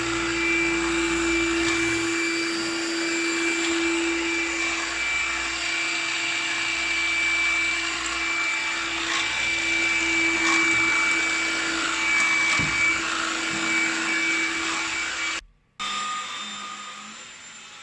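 Black + Decker Multipro 2-in-1 cordless vacuum cleaner running steadily, a motor hum and whine over the rush of suction. It cuts out for a moment about fifteen seconds in, then comes back much quieter with a changed tone.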